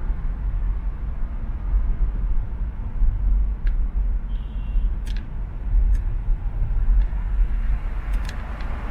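Road and traffic noise from a car driving along an urban expressway: a steady low rumble with tyre and road hiss. A few short sharp clicks and a brief high chirp come through around the middle.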